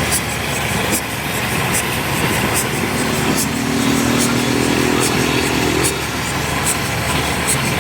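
Steam locomotive running: a steady rumble and hiss with faint sharp ticks roughly twice a second, and a low hum from about three seconds in that stops about three seconds later.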